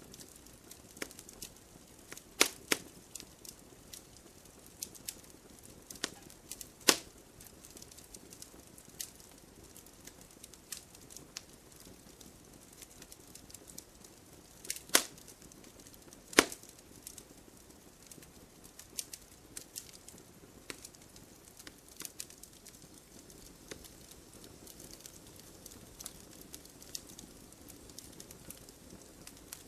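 Bonfire of burning wood crackling: irregular sharp pops and snaps, with four louder pops standing out, over a faint steady hiss.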